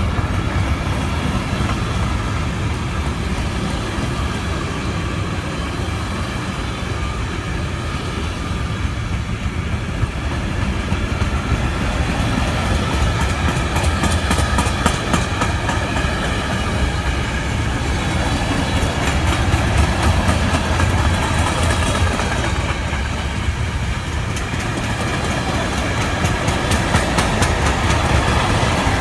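A long freight or passenger train rolling along with a steady rumble of its cars, with spells of rapid clickety-clack from wheels running over rail joints in the middle and again near the end.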